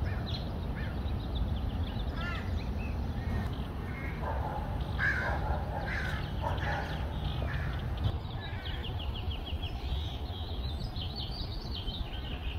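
Wild birds calling outdoors: a mix of short repeated calls, some caw-like, and near the end a quick run of high notes, over a steady low rumble.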